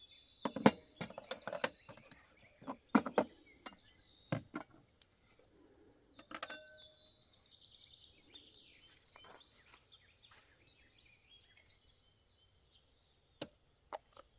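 Sharp knocks and clinks of utensils against a bowl while dry ingredients for pancake batter are measured and mixed. One clink about six seconds in rings briefly. Birds chirp steadily in the background.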